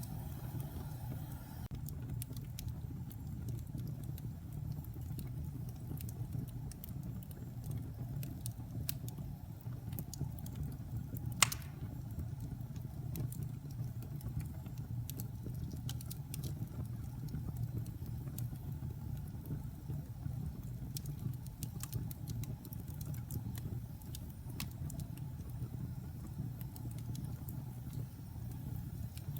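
Wood fire burning in a fireplace: a steady low rumble of flames, with scattered crackles from the burning logs and one sharp, loud pop about a third of the way through.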